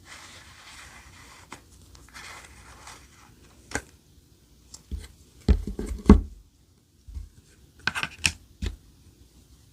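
Clear slime being worked by hand: a soft crackly hiss at first, then a sharp click, a cluster of louder low squishy pops about halfway through, and a few sharp pops near the end.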